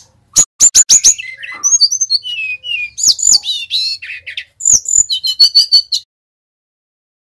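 Brown-chested jungle flycatcher (sikatan rimba dada coklat, Bali type) singing: a string of sharp chips and rising and falling whistles, ending in a fast trill about six seconds in.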